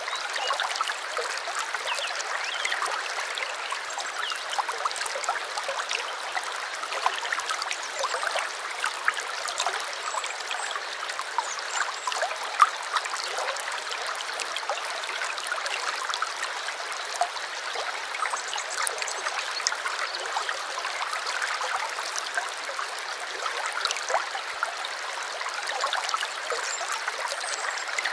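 A small stream running steadily, with a light, high trickle and gurgle and no deep rush.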